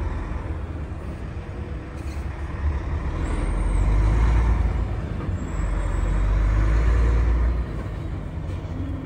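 Heavy truck driving, heard from the cab: a steady engine and road rumble that swells louder twice in the middle.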